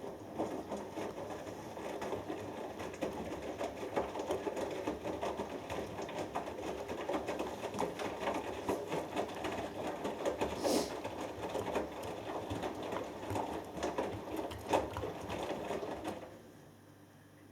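Hoover Dynamic Next front-loading washing machine's drum turning during a cotton wash, the wet load tumbling with a continuous irregular clatter of small knocks. The drum stops about sixteen seconds in, leaving a faint hum.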